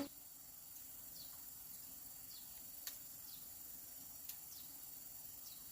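Faint short high chirps, each falling in pitch, repeating every second or so over a quiet steady background, with two soft clicks in the middle.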